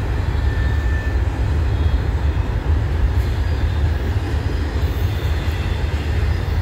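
Double-stack container well cars of a CN intermodal freight train rolling past as the train gathers speed, a steady low rumble of wheels on rail.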